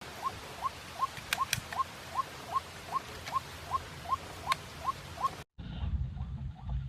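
White-breasted waterhen calling: a short rising note repeated evenly about two and a half times a second, with a few sharp clicks among the calls. About five and a half seconds in the sound cuts off abruptly, and the calls carry on fainter over a low rumble.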